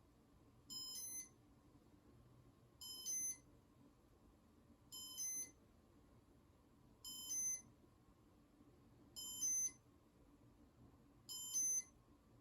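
Casablanca Comfort Touch ceiling-fan control beeping through its test mode: a short electronic multi-tone beep, about half a second long, repeating about every two seconds, six times.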